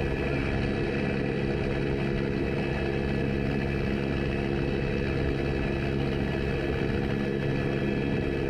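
Helicopter running steadily: a constant engine drone with a thin high whine over it, cutting off abruptly at the end.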